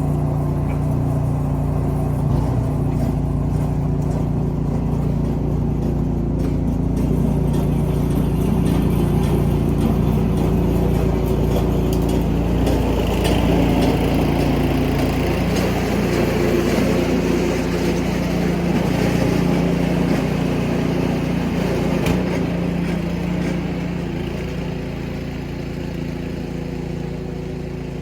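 An engine running steadily at an even speed, getting somewhat quieter near the end.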